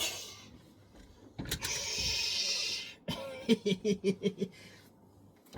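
A man's voice making a breathy whoosh of about a second and a half, then a quick run of about six short pitched pulses, like a chuckle.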